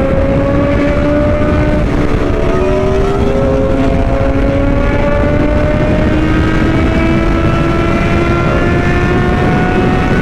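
Inline-four sport-bike engine with an aftermarket exhaust, running under load with its pitch climbing slowly and dipping briefly a few times as it changes gear, over a steady rush of wind.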